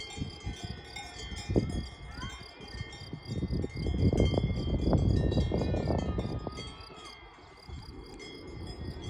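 Cowbells ringing steadily, several bells clanging together at once, with a louder low rumbling rustle over the middle few seconds.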